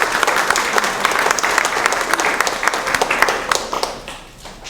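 Audience applauding, the clapping thinning out and fading away near the end.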